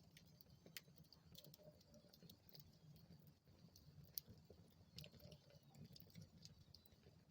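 Wood fire in a fireplace crackling faintly: scattered, irregular small snaps and pops over a soft, low rush of the flames.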